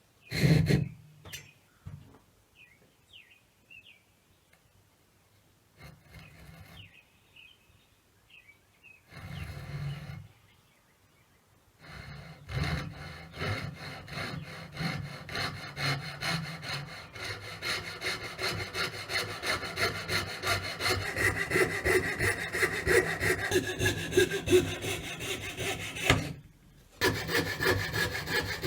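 Hand saw cutting through wood, in steady back-and-forth strokes about two or three a second. It starts a while in after a quiet spell and pauses briefly near the end before going on.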